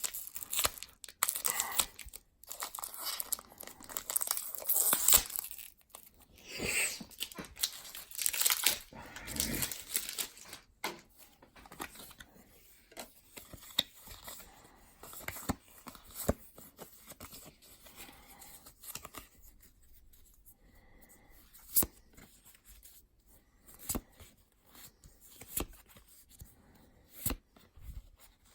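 A Pokémon booster pack's foil wrapper being torn open and crinkled. After that come scattered light clicks and slides as the cards are handled.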